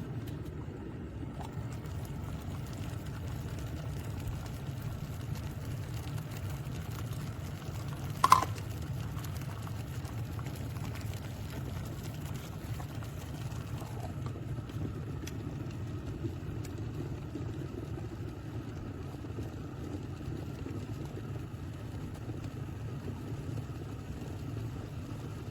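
Small stainless electric kettle heating water, giving a steady low rumble, with a single sharp click about eight seconds in.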